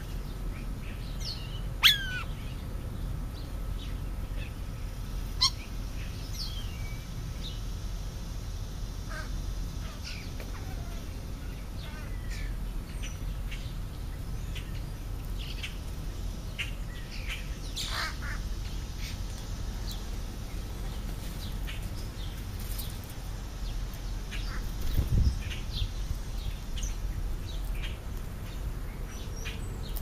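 Birds chirping outdoors: scattered short, high calls and little downward whistles throughout, over a steady low rumble. Two sharp taps come in the first six seconds, and a louder thump about 25 seconds in.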